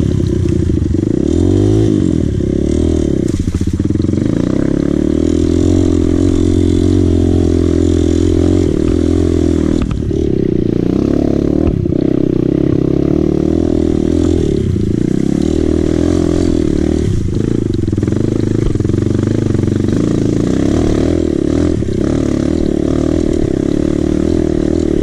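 Dirt bike engine running under way, its revs rising and falling, with short drops in the engine note every few seconds.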